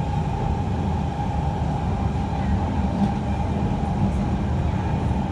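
Interior of a Kawasaki C151 electric multiple unit train running along the track: steady low rumble of the wheels and running gear, with a constant whine over it.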